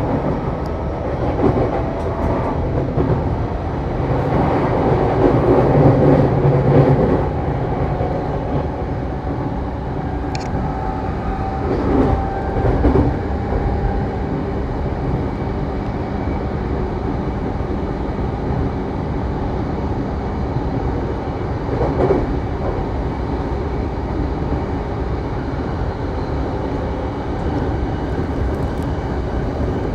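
Saikyo Line electric commuter train running between stations, heard from inside the car: a steady rumble of wheels on rail, swelling louder for a few seconds about five seconds in and again about twelve seconds in, with a faint steady hum underneath.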